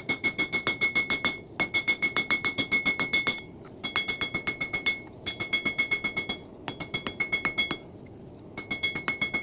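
Hand hammer striking hot coil-spring steel on an anvil while drawing out a knife blank. The blows come in quick runs of about six a second, each run a second or two long with short pauses between. The anvil rings with clear high tones on every blow.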